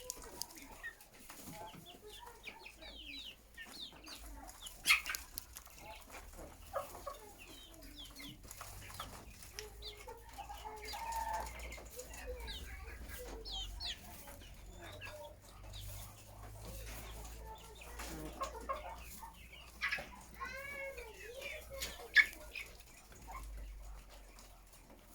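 A flock of chickens clucking, many short calls overlapping, with a few sharp clicks or knocks standing out above them.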